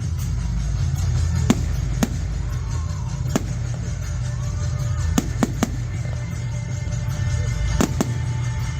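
Firework reports going off over loud music with a heavy bass beat: sharp single bangs scattered through, a quick run of three around the middle and two more close together near the end.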